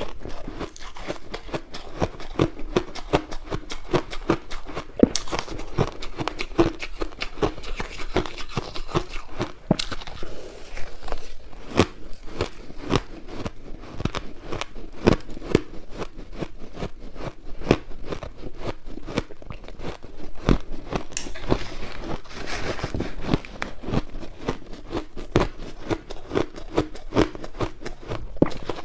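Crushed ice bitten and chewed close to the microphone: rapid, continuous crunching with many sharp cracks.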